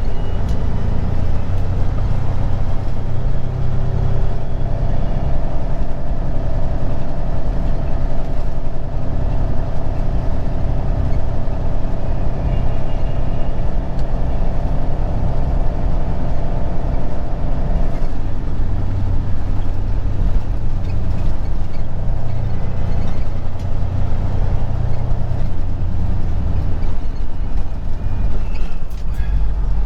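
Semi truck's diesel engine running while driving, heard from inside the cab as a steady low rumble. A thin whine runs over it until about two-thirds of the way through, then drops away as the rumble grows stronger.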